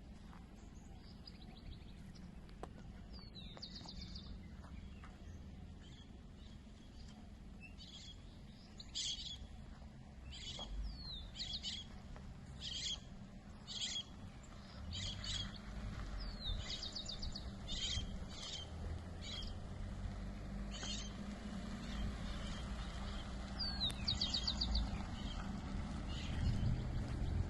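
Birds calling: a series of short, high chirps, about one a second, with now and then a falling note that runs into a quick buzzy trill. Under them is a steady low rumble that grows louder near the end.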